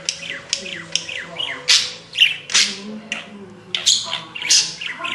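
Budgerigar chattering and squawking, played back slowed down: a quick string of short falling chirps, several a second, with speech-like warbles mixed in.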